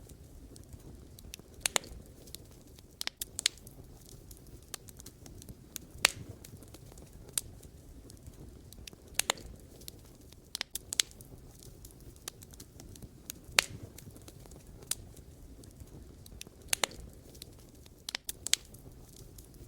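Wood fire burning: a low steady hiss with sharp, irregular crackles and pops from the burning logs, a few of them loud.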